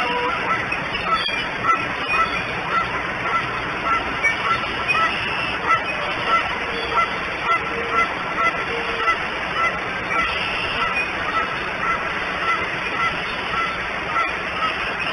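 A bird calling off the nest in a steady series of short, honking calls, about two a second, over a steady background hiss.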